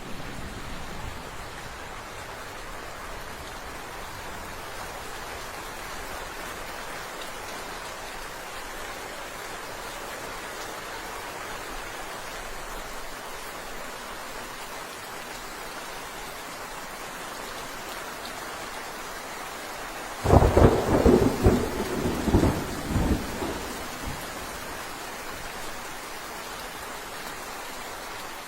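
Steady rain falling, with a sudden clap of thunder about twenty seconds in that rumbles on in several peaks for about three seconds before the rain carries on alone.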